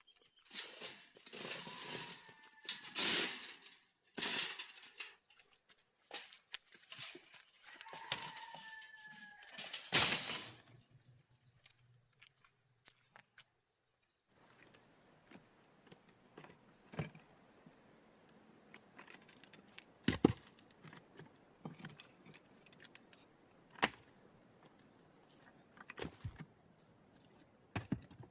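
Irregular knocks and clatter over the first ten seconds, with two short falling calls among them. After a brief gap there are only sparse sharp clicks over faint background noise.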